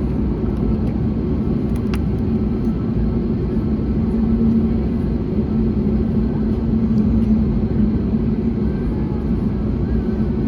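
Steady cabin rumble inside an Airbus A321neo airliner in flight, engine and airflow noise from its Pratt & Whitney PW1100G geared turbofans, with a low steady hum running through it. A faint click comes about two seconds in.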